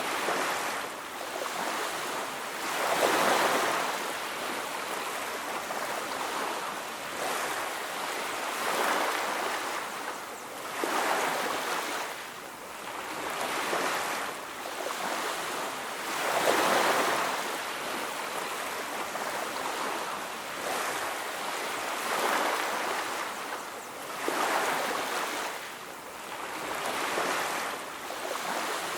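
Ocean waves breaking on a beach, the surf swelling and receding in a slow irregular rhythm every few seconds.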